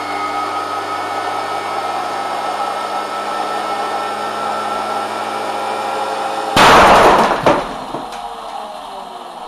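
Motor-driven record spinning at high speed with a loud steady whir, then about six and a half seconds in the record bursts with a loud bang and flying shrapnel, a second sharp crack following under a second later. After the burst the motor's whine falls steadily in pitch as it spins down.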